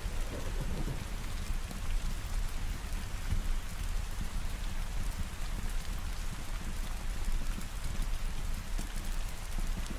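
Steady rain falling on surfaces, an even hiss of many drops over a constant low rumble.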